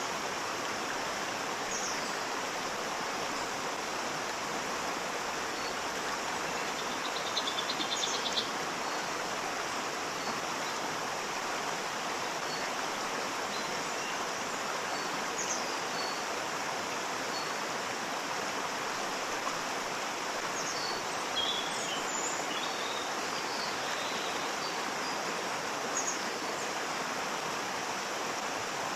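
Waterfall rushing steadily, with a few short bird chirps over it and a quick bird trill about seven seconds in.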